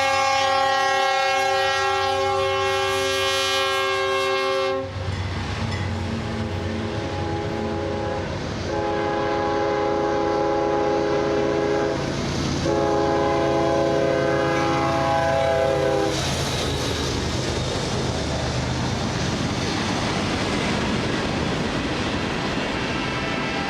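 Train horn sounding three long blasts of several pitches together over the low rumble of a train. The first blast lasts about five seconds and the next two about three seconds each, with a short gap between them. After that the train's rumble and rail noise continue, and the horn starts again near the end.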